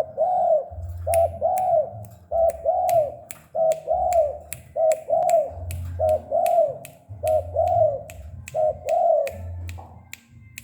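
Spotted dove cooing its song, a short double note followed by a longer rising-and-falling coo, about six times in a row. A steady beat of sharp clicks, about three a second, runs under it.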